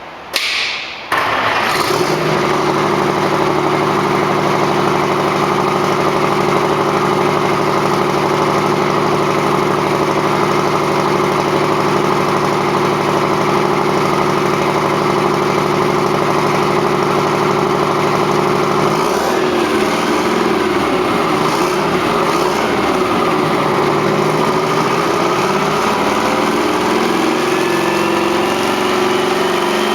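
Rebuilt Detroit Diesel 8V92 two-stroke V8 diesel starting on a test stand: a short burst, then it catches about a second in and runs at a steady idle. From about two-thirds of the way through the note turns uneven, and a whine rises near the end.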